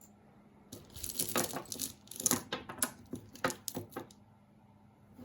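Costume jewelry being handled, its beads and pieces clicking and clattering together in a quick run of small clicks. It starts about a second in and dies away about a second before the end.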